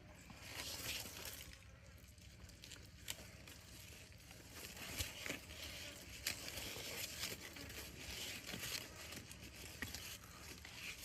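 Faint rustling and crackling, with scattered small clicks and snaps.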